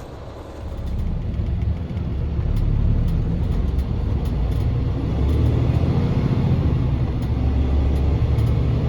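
Car driving on a snowy road: low engine and road rumble that grows louder about a second in and then holds steady.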